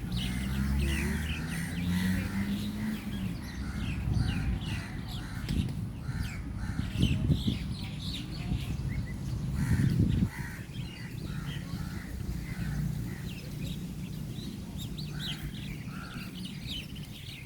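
A flock of birds chirping and calling without pause, a dense chorus of short, quick calls, over a steady low rumble.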